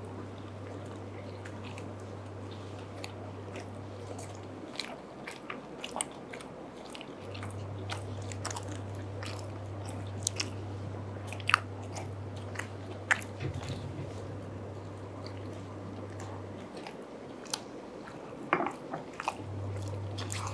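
Two men chewing bites of club sandwich close to the microphone, with many short, sharp crunchy clicks scattered through the chewing.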